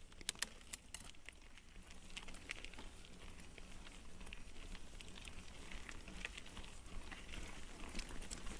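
Mountain bike moving over a loose dirt and gravel trail: steady crunching and rattling, with a few sharp clicks in the first second.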